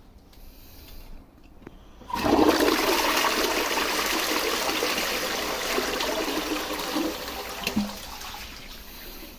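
Packaged 'bog in a box' close-coupled toilet flushing: a sudden rush of water about two seconds in, running strongly for around five seconds, then easing to a quieter flow of water near the end.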